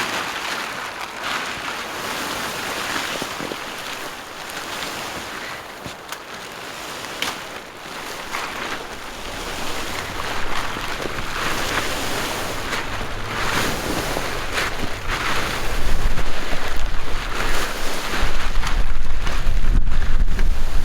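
A rushing, hissing noise with irregular scrapes and knocks, and wind buffeting the microphone during the last few seconds.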